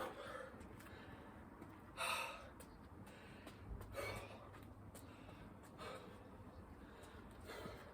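A man breathing hard from exertion, with a heavy gasp about every two seconds; the loudest comes about two seconds in. Faint short clicks lie between the breaths.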